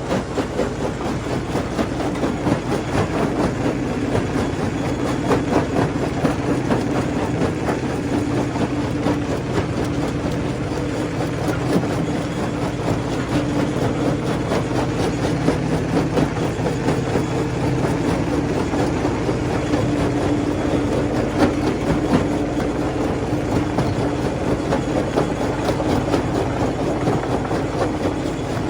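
Stone crusher running steadily, a constant machine hum under a dense, continuous clatter of rock being crushed.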